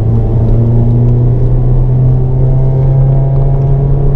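Hyundai Avante N's turbocharged four-cylinder engine heard from inside the cabin, pulling hard under acceleration out of a corner, its pitch rising slowly and steadily.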